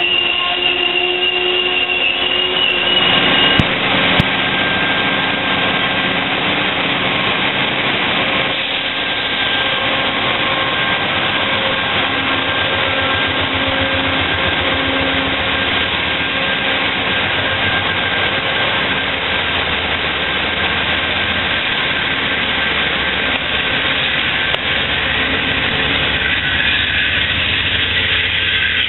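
Amtrak passenger train rolling past close by, its wheels squealing with steady high tones for the first few seconds. Then the P42DC diesel locomotive's 16-cylinder engine runs loudly with a throbbing low rumble as it goes by. Near the end the sound changes to a locomotive approaching from down the track.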